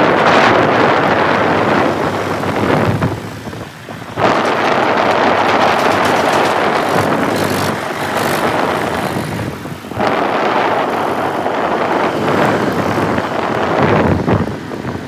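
Heavy diesel machinery running, with wind buffeting the microphone. The sound dips briefly about three to four seconds in and again near ten seconds, then comes back abruptly each time.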